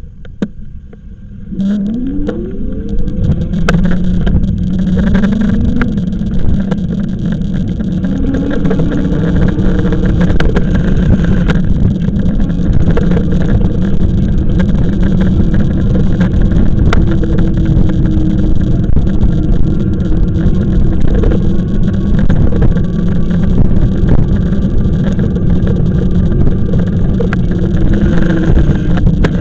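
E-bike ride with heavy wind rumble on the microphone and a steady motor whine, which rises in pitch about two seconds in as the bike speeds up and then holds level.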